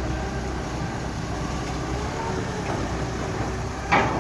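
A vehicle engine running steadily, with one sharp knock about four seconds in.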